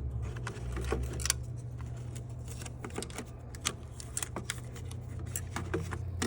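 Hand tools and small metal parts clicking and clinking irregularly, a couple of dozen sharp ticks and clinks, over a low steady hum.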